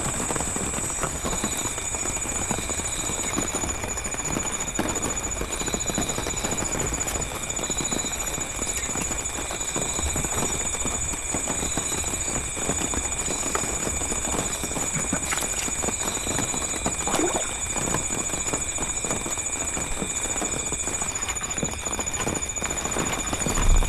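Steady rain falling in forest, with continuous high-pitched insect trills layered over it, one of them a fast pulsing buzz.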